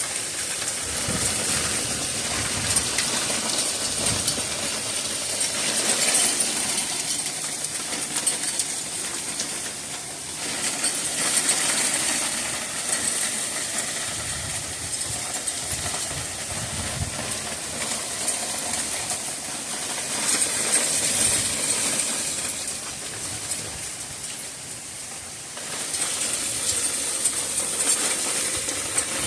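Heavy hail coming down like rain: a dense hiss of countless small ice pellets striking, swelling and easing several times.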